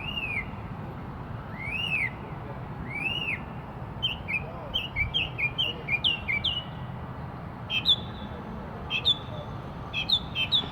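A bird singing a varied song. Three arched whistles rise and fall in pitch, then a quick run of short falling chirps, then sharp clipped notes near the end.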